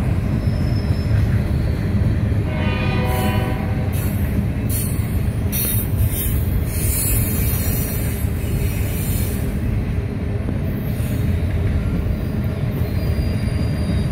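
BNSF double-stack intermodal freight train rolling past, its wheels on the rail making a steady rumble. The locomotive's air horn sounds one blast about three seconds in.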